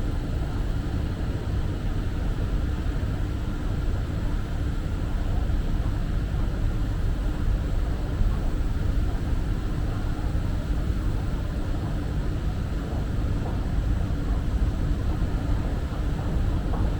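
Steady low rumble of an underground metro station's ambience, with a faint steady hum.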